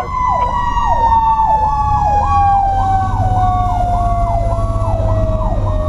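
Fire truck sirens: an electronic siren in a fast up-and-down yelp, over a mechanical Federal Q siren whose steady wail slowly falls in pitch as it winds down. The truck's engine rumbles underneath.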